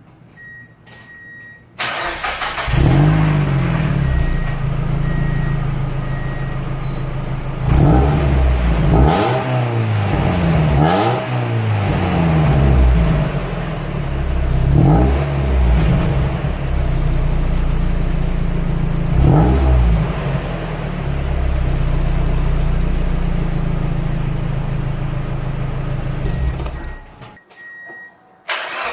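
2002 Mazda Miata (NB) four-cylinder engine with a catless exhaust starting about two seconds in, idling with several quick revs, then shut off near the end. A short beeping tone sounds before the start.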